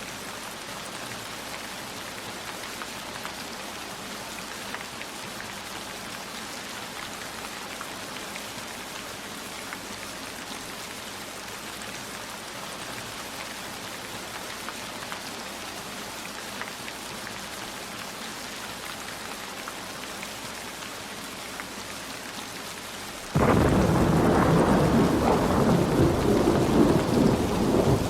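Steady heavy rain falling, with small scattered drop taps. About 23 seconds in, a loud, deep rumble of thunder breaks in suddenly over the rain and keeps rolling.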